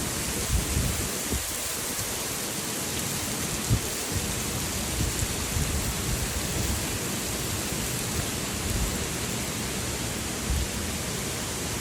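Heavy rain falling steadily in strong wind, with low gusty buffets on the microphone now and then.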